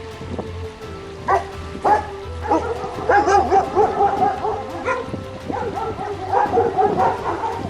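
Dog barking over and over, the barks starting about a second in and coming rapidly from about three seconds on, with background music underneath.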